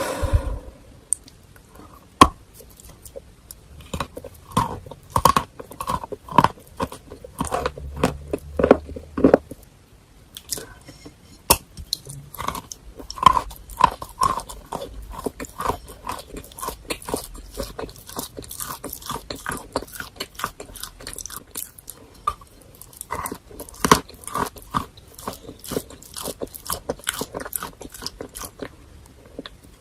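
Close-miked chewing and crunching of eating chalk mixed with paste: sharp, crisp crackles in irregular runs of bites and chews, with brief pauses between mouthfuls.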